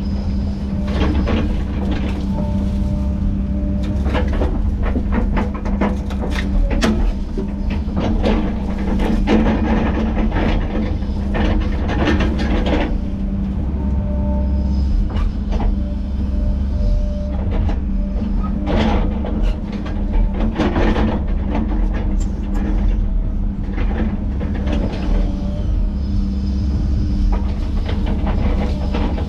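Heavy diesel land-clearing machinery running steadily under load, with repeated sharp cracks and knocks at irregular intervals.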